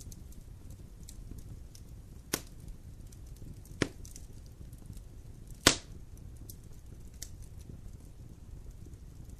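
Campfire burning: a steady low rumble of flame with faint scattered crackles and three sharp pops. The loudest pop comes a little past the middle.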